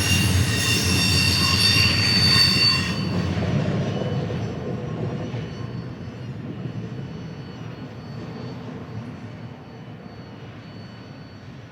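A train passing on the rails: its wheels squeal in several high tones for about the first three seconds, then stop squealing, and the low rumble fades steadily away as the train goes off.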